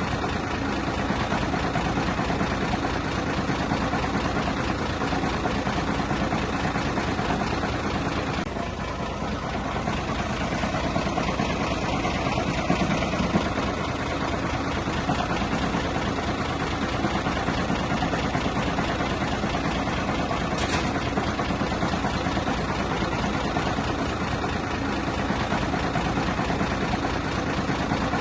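Bulldozer's diesel engine running steadily, with a short dip in level about eight seconds in.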